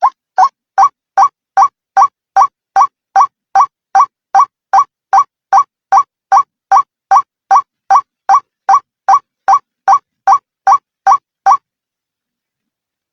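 White-breasted waterhen (ruak-ruak) calling: the same short call repeated in a fast, even series of about two and a half notes a second, which stops near the end.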